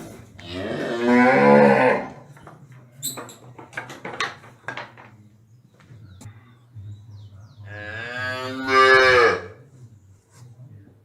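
A cow mooing: two long, loud moos, one at the start and one about seven seconds in, the second falling in pitch at the end. A few short clicks come in between.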